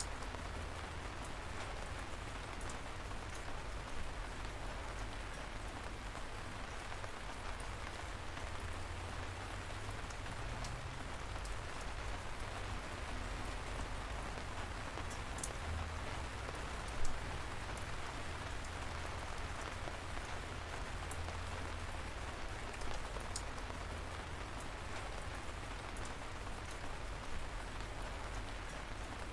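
Steady light rain: an even hiss of rainfall with scattered individual drops ticking sharply through it, one louder drop about seventeen seconds in.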